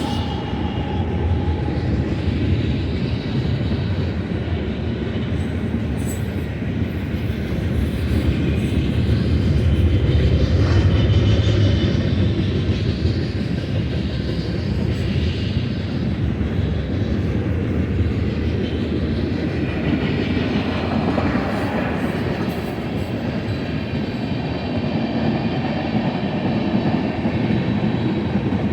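A freight train's cars rolling past, with a steady rumble and rattle of steel wheels on the rail. The rumble swells for a few seconds about a third of the way in.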